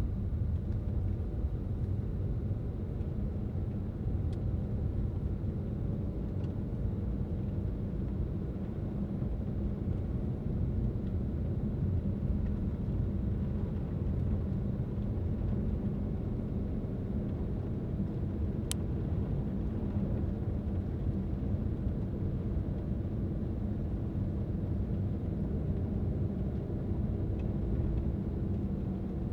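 A car driving on the road: a steady low rumble of engine and tyres, with one short sharp tick about two-thirds of the way through.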